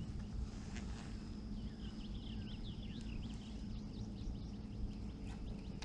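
Birds chirping outdoors, with a quick run of short, sweeping calls from about a second and a half in, over a low steady hum.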